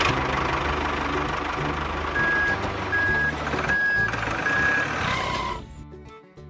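A truck's engine running while its reversing alarm beeps four times, evenly spaced, before the engine noise cuts out near the end, with background music underneath.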